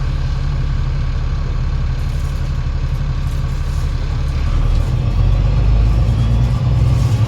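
Diesel engine of an Alexander Dennis Enviro500 MMC double-deck bus with a Voith gearbox, running with a steady low rumble, then growing louder and deeper about four and a half seconds in as it takes up more power.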